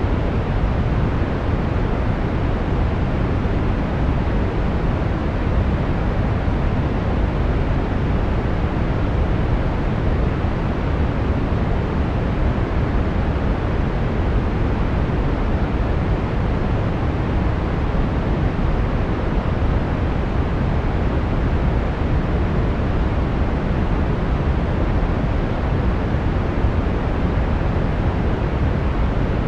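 Steady brown noise: an even, deep rushing hiss with most of its weight in the bass, unchanging throughout.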